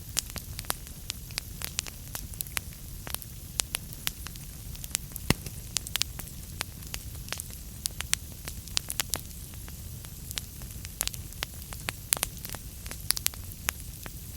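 Wood fire burning in a fireplace: logs crackling with irregular sharp pops over a low steady rumble, one louder pop about five seconds in.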